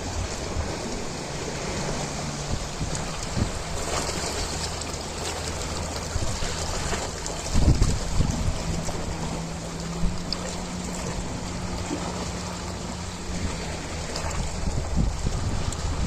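Ocean waves washing in as a steady rush of surf, with a faint low hum underneath for much of it and a heavier low thud about eight seconds in.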